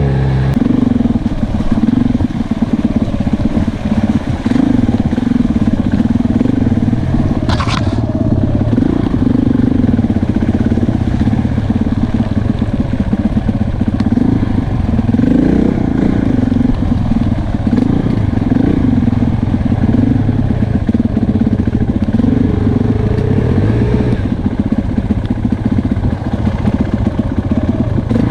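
Enduro motorcycle engine running while riding, its revs rising and falling continually. A brief hissing noise about seven and a half seconds in.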